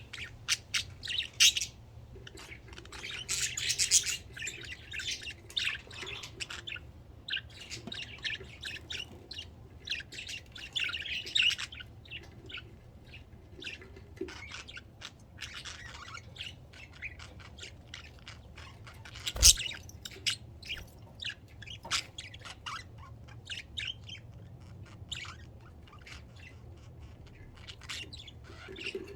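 Pet budgerigars chirping and chattering in quick, high bursts, on and off. A single sharp click, the loudest sound, comes about two-thirds of the way through.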